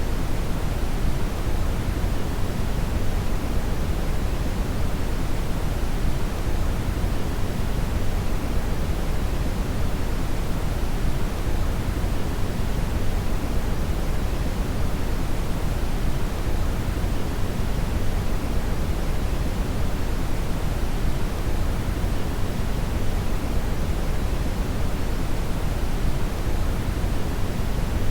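Steady synthetic brown (red) noise: an even, deep rushing hiss with most of its energy in the bass, unchanging throughout.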